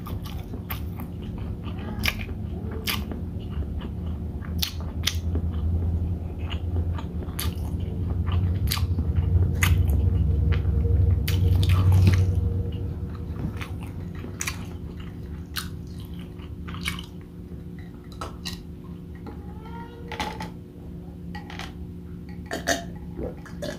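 Close-miked mouth noises of a person chewing and eating: many short wet clicks and smacks, with a low rumble swelling in the middle. Near the end come a few gulps of a drink, over a steady low hum.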